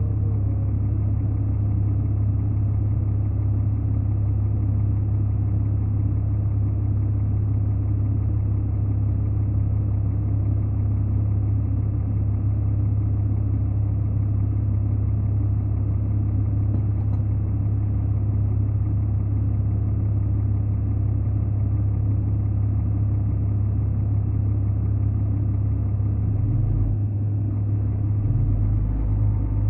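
A large engine running steadily at idle, a continuous low rumble.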